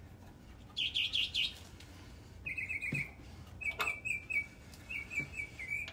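Songbirds chirping: a quick run of high twittering notes about a second in, then repeated short chirps through the rest.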